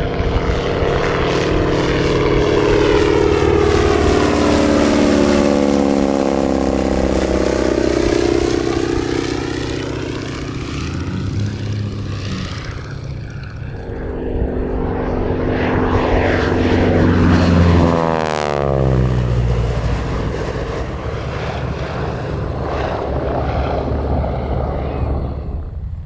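North American AT-6 Texan's nine-cylinder Pratt & Whitney R-1340 radial engine and propeller flying past twice, the note dropping in pitch as it goes by each time. The first pass is slow and long; the second, about eighteen seconds in, is quicker and louder with a steep drop in pitch.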